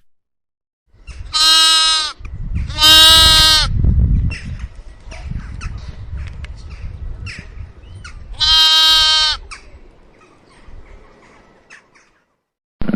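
A farm animal bleating: three long calls, the second the longest, with a low rumbling noise between them.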